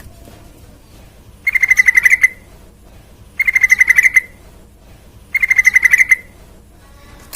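Yellow-vented bulbul (trucukan) calling: three short, loud trills of rapid, even notes, each under a second and about two seconds apart.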